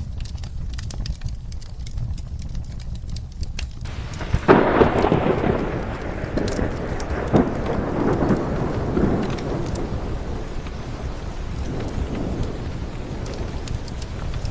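Fireplace crackling over steady rain, then about four and a half seconds in a thunderclap breaks out and rolls away over several seconds.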